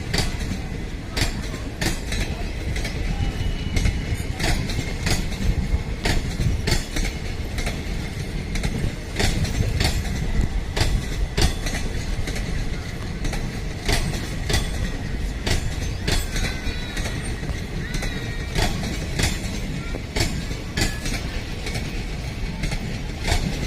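Train running past on the rails, its wheels clicking over rail joints above a steady low rumble.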